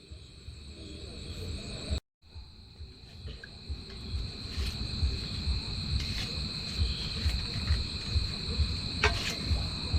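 Crickets or similar insects chirping in a steady high drone, over a low irregular rumble. The sound cuts out briefly about two seconds in and then comes back.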